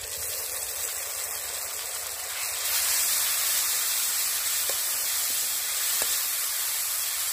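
Tomato paste and spices sizzling in hot mustard oil in a pan, a steady hiss that grows louder about three seconds in.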